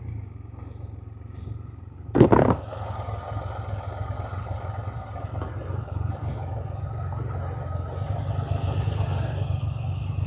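Can-Am Spyder three-wheeler's engine running steadily while riding, a low rumble with road and wind noise. A brief voice-like sound about two seconds in.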